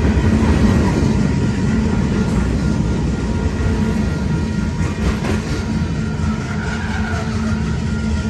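Freight train cars rolling past a railroad crossing: a steady, loud rumble of wheels on rail.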